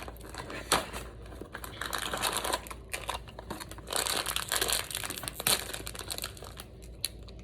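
Koala's March cookie packaging being opened and handled, its wrapper crinkling and crackling in irregular bursts, with a sharp pop about a second in and another near the end.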